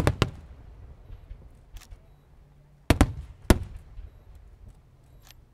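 Fireworks going off: a sharp bang just after the start, then a burst of loud bangs about three seconds in and another half a second later, each followed by a low rumbling echo.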